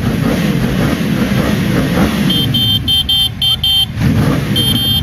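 Yamaha R1 sport bike's inline-four engine revving through its exhaust, the pitch rising and falling. A rapid high-pitched beeping pulses over it from about halfway through.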